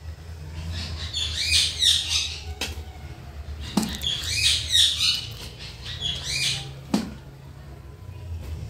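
A bird calls in three bursts of quick, high chirps, and a metal slotted spoon knocks sharply on the rim of an aluminium pot a few times as parboiled rice is spooned in, over a steady low hum.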